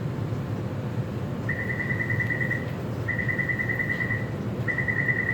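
Door-closing warning beeper of a Taipei Metro train, sounding in rapid high beeps in bursts of about a second, repeating every second and a half from about a second and a half in, over a steady low rumble of the stationary train. It signals that the doors are about to close before departure.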